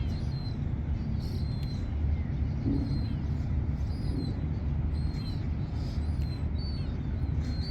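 Small birds chirping in many short, high calls over a steady low rumble.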